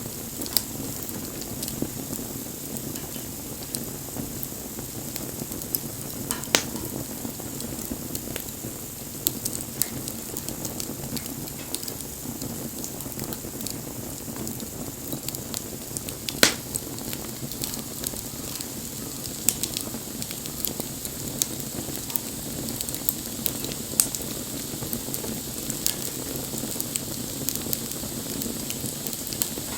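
Wood bonfire burning: a steady hiss with frequent crackles and sharp pops, the loudest pops about six and a half and sixteen and a half seconds in.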